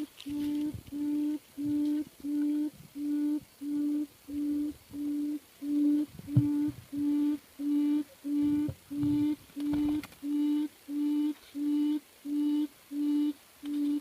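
A recorded lure call played from a small speaker: a short low hoot repeated evenly, about one and a half times a second, with faint higher chirps under it.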